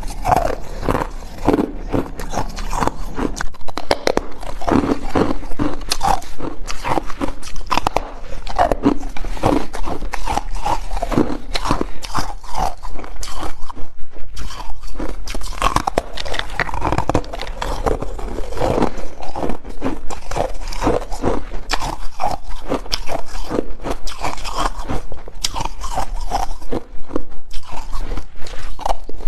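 Hard ice being bitten and chewed close to the microphone: dense, continuous crunching, one crunch after another with no pauses.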